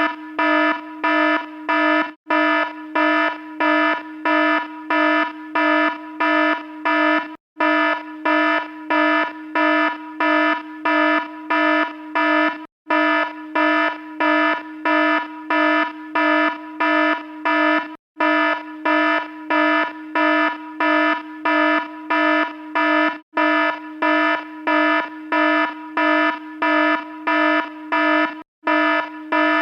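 Electronic alarm sounding a buzzy, low-pitched tone in quick repeated pulses, about two a second, with a brief break every five seconds or so.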